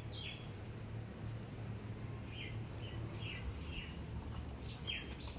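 Birds chirping over a steady low background hum: a few short chirps in the middle, then a quicker run of higher, falling chirps near the end.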